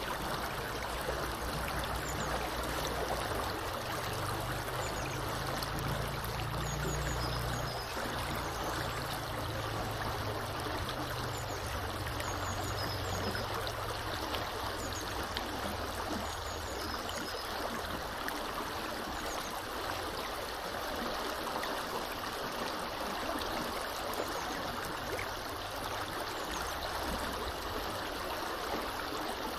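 Small river flowing steadily, a continuous rushing of water, with a few faint high bird chirps now and then.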